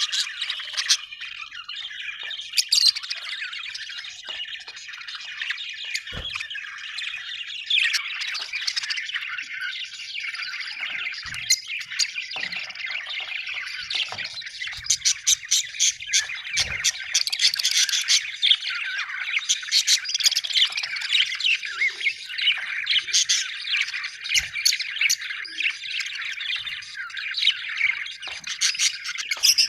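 Budgerigars chattering and warbling without a break, full of rapid, sharp chirps that grow busier from about halfway through.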